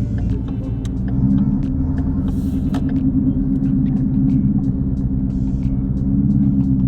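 Ford Mustang GT's 5.0 V8 engine running steadily at low speed with a deep, even rumble.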